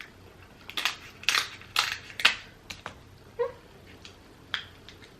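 King crab leg shell being cracked open: a run of four loud, sharp cracks about half a second apart, then a few smaller clicks.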